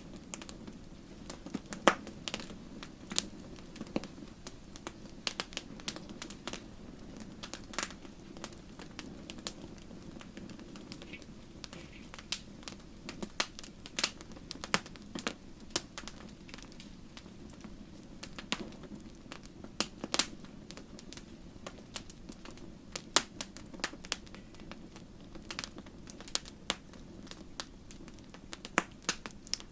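Wood campfire crackling: irregular sharp pops and snaps of burning wood, a few louder ones standing out, over a steady low rumble of the flames.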